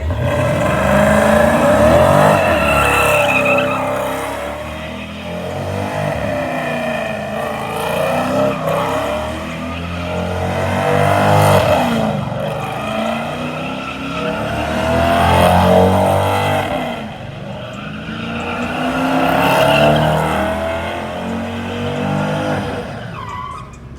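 Dodge Charger 392 Scat Pack's 6.4-litre HEMI V8 revving hard during a smoky burnout and donuts, rear tyres spinning. The engine note swells and falls again and again, about five times, then drops away near the end.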